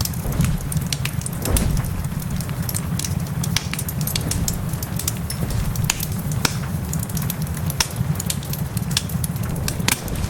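Fireplace crackling with frequent sharp pops over steady rain hiss, and a constant low rumble underneath.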